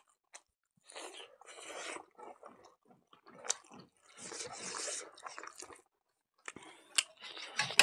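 Eating sounds: chewing a mouthful of rice mixed with pig blood and fat, with soft squishing as a bare hand kneads the sticky rice in a wooden bowl. The sounds come in short, irregular bursts with a few sharp clicks.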